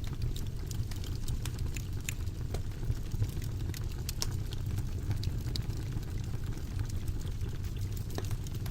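Fireplace fire crackling: a steady low roar of flames with many small, irregular sharp pops and snaps of burning wood.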